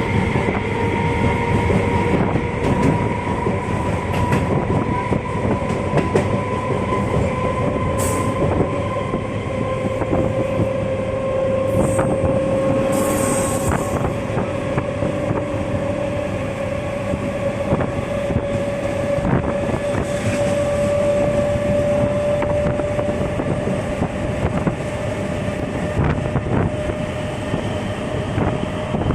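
A train running on the rails: wheels clattering over rail joints under a constant rumble, with a steady whine that slowly rises in pitch throughout.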